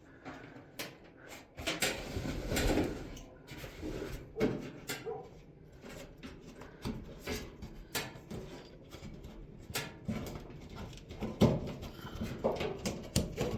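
Irregular knocks, clicks and rubbing as the inside of a clothes dryer is handled: metal parts and panels being moved and bumped.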